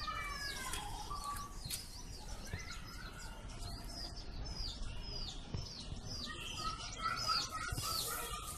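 Birds chirping outdoors: many short, high calls that fall in pitch, repeated irregularly and coming thicker in the second half.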